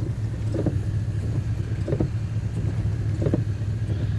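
A vehicle engine running steadily with a low hum, while a downed tree trunk is being dragged off the road.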